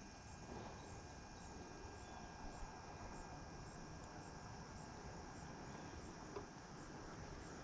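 Faint, steady high-pitched chorus of insects over a low outdoor background hiss, with a couple of soft clicks.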